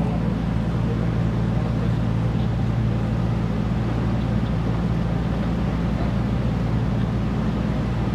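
A boat's engine running steadily: a constant low drone with an even wash of noise above it.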